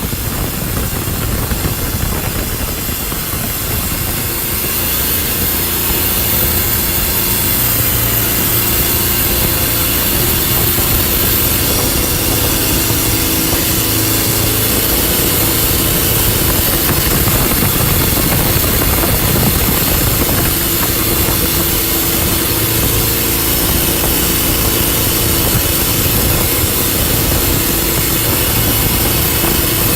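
Speedboat engine running steadily under way, a little louder after the first few seconds and then holding an even pitch.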